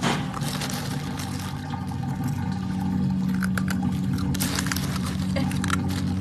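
Steady low mechanical hum, like a motor running, with a sharp click at the start and a few light clicks and scrapes.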